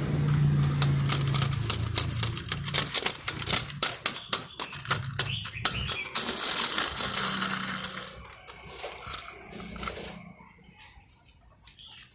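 Small hard toys being handled and set down: a rapid run of clicks and clatter, then a short rustling hiss about six seconds in, tailing off into a few scattered clicks.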